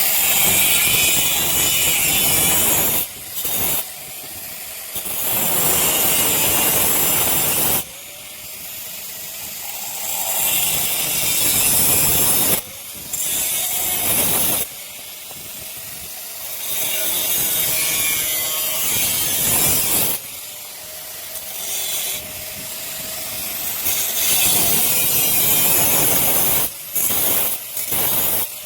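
Handheld electric power tool working on steel: long loud stretches of its disc biting into the metal alternate with quieter gaps where the motor spins free with a faint steady whine.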